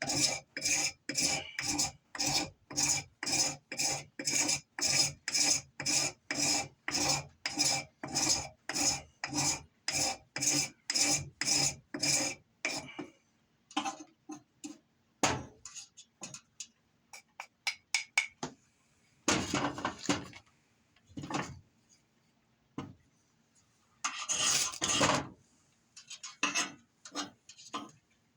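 Fatwood being scraped into shavings with a metal edge: rhythmic rasping strokes, about two a second, with a slight metallic ring. About 13 seconds in they give way to irregular shorter scrapes and two longer rasps.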